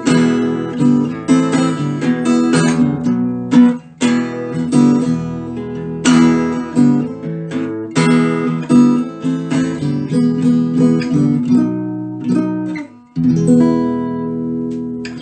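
Acoustic guitar strumming chords to close the song, with a few brief pauses. It ends on one held chord that rings out and fades.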